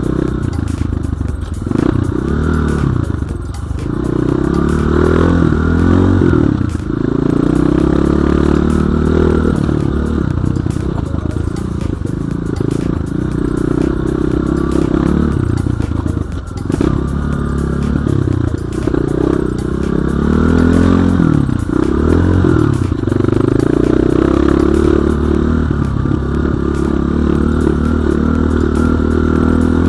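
BSE J1 enduro dirt bike's engine running under load on a forest trail, its revs climbing and dropping again and again as the throttle is opened and closed.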